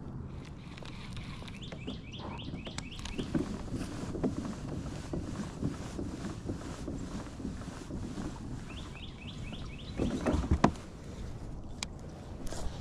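A bird calling twice, each time a quick run of about six or seven short, falling high notes, over a steady low rumble of water and kayak noise. A louder knock and rustle comes about ten seconds in, followed by a couple of sharp clicks.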